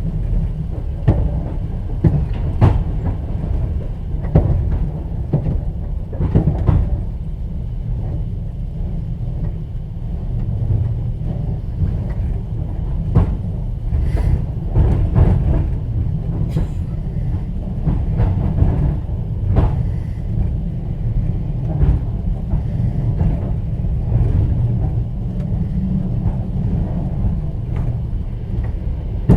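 Inside a platzkart sleeper carriage of a moving train: the steady low rumble of the running gear, with scattered knocks and rattles from the wheels and carriage at irregular intervals.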